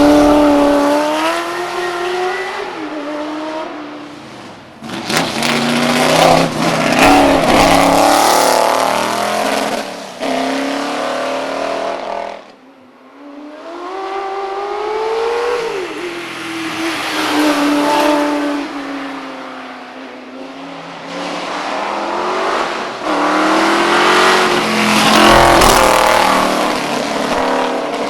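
V8 race car engines accelerating hard up a hillclimb course. The engine note climbs and drops back at each gear change. The cars are loudest as they pass, with a brief lull about halfway through.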